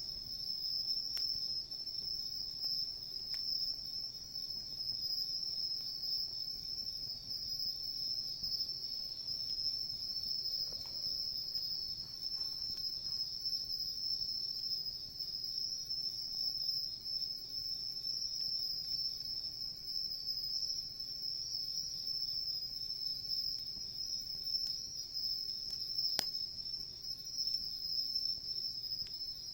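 Insects, crickets, chirping in a continuous high-pitched chorus, steady throughout, with a few faint sharp clicks.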